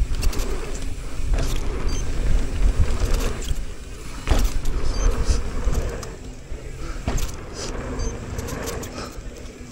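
Mountain bike ridden fast down a dirt trail: wind rumble on a helmet chin-mounted microphone, with tyre noise and the bike's chain and parts rattling and knocking over bumps.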